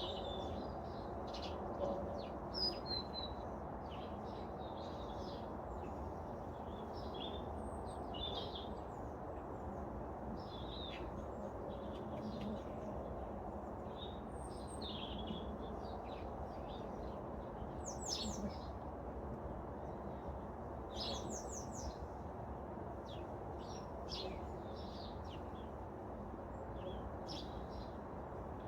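Wild garden birds chirping and singing, many short calls and trills one after another, over a steady low background noise.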